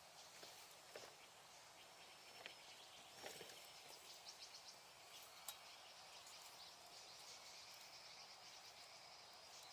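Small wood bonfire crackling faintly, with scattered sharp pops about one, two and a half, three and five and a half seconds in. A thin, steady high trill joins from about the middle on.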